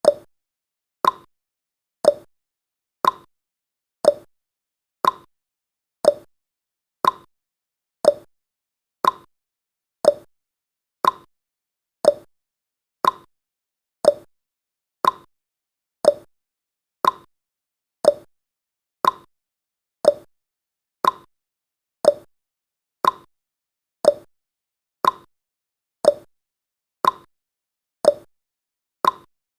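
Clock-tick sound effect of a countdown timer: short sharp ticks about once a second, alternating higher and lower in pitch like a tick-tock.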